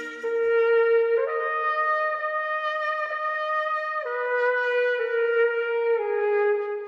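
Solo trumpet playing a slow melody of long held notes, changing pitch about every second.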